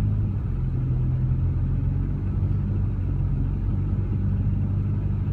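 Rover 45 petrol engine heard from inside the cabin, running at fairly steady revs under load as the car struggles for grip in snow with the wheels spinning. The engine is dropping a cylinder.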